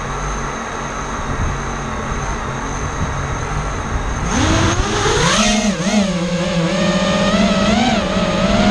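FPV racing quadcopter's motors whining, their pitch following the throttle: a noisy rush at first, then about four seconds in the whine climbs, wavers up and down and holds, rising again near the end.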